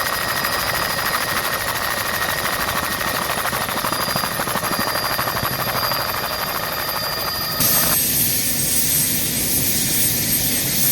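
Helicopter running steadily with a fast, even pulsing from the rotor. About three-quarters of the way through, the sound changes abruptly to a slightly louder steady engine noise with a high whine.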